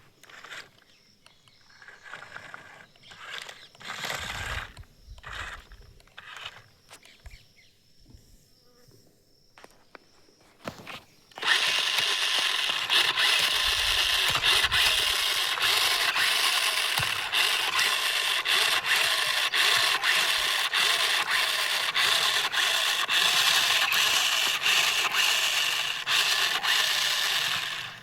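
Scattered clicks and scrapes, then, about a third of the way in, the small electric motor and plastic gearbox of an RC toy vehicle start running with a steady whirring buzz and fine ticking. The sound stops near the end.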